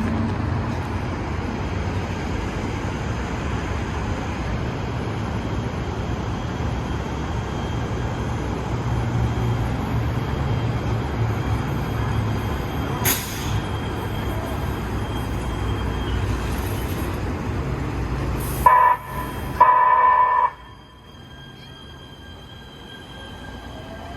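Metro rail train running with a steady rumble of wheels on track. Near the end come two short high tones, after which the running noise drops off sharply.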